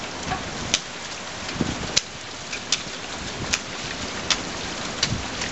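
Steady rain falling as an even hiss, with sharp ticks of drops hitting something close by, about one every three-quarters of a second.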